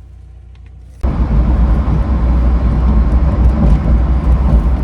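BMW E36 on the move: a loud, heavy low rumble of engine and road noise that starts abruptly about a second in, after a quiet low hum.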